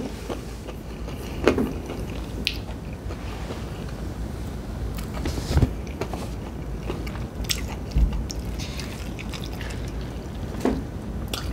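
A person chewing a mouthful of fried chicken with lips closed: scattered wet mouth smacks and clicks, irregularly spaced, over a low steady hum.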